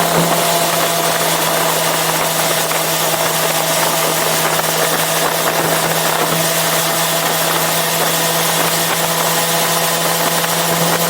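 Yamaha FZ6R sportbike's inline-four engine running at a steady, unchanging pitch, over a constant hiss.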